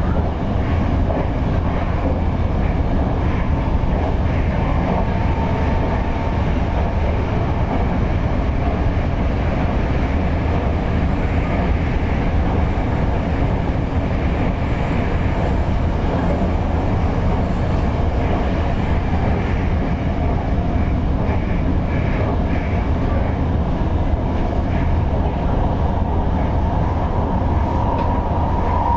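Toyo Rapid Railway 2000 series electric train running along the line, heard from inside the driver's cab: a steady low rumble of wheels on rail, with a faint whine that comes and goes.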